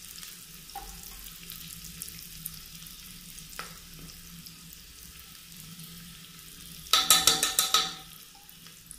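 Onions and green chillies sizzling gently in ghee and oil in an aluminium pressure cooker, with turmeric and ground spices just spooned in. About seven seconds in, a metal spoon clatters quickly against the pot for under a second.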